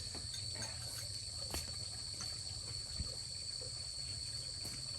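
Insects trilling steadily at a high pitch, with a few soft clicks and knocks, one about a second and a half in and a duller one about three seconds in.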